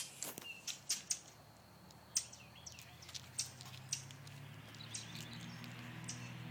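Short, sharp bird chirps repeating irregularly, several a second at first and sparser later. A low steady hum builds up during the second half.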